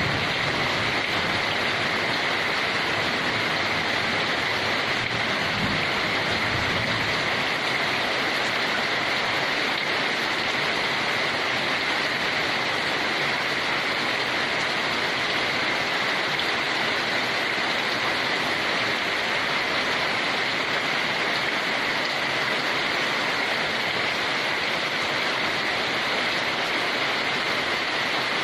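Steady heavy rain, an even unbroken hiss with no separate drops standing out.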